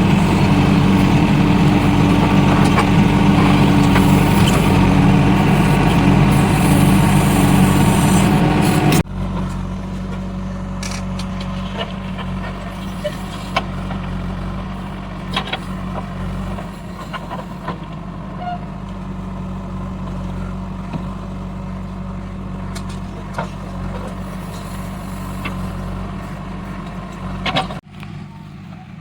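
Heavy diesel engine running hard and loud, then after a sudden cut about nine seconds in, running more quietly and steadily with scattered clanks and knocks.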